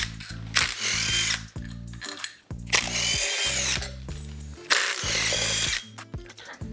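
Power tool, most like a cordless drill or driver, running in three bursts of about a second each, its motor whine bending in pitch as it speeds up and slows.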